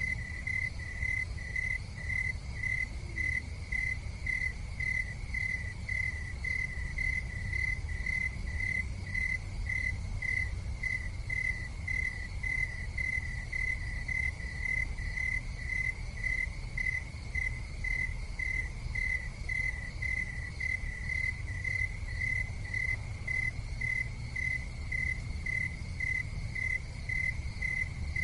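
Cricket chirping steadily, a regular high chirp about twice a second, over a steady low rumble.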